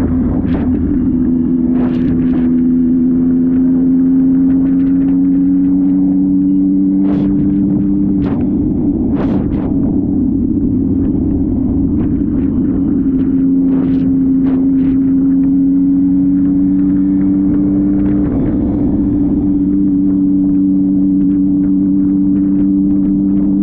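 Motorcycle engine running at nearly constant revs, its pitch slowly climbing and then dropping back twice, with scattered brief clicks over it.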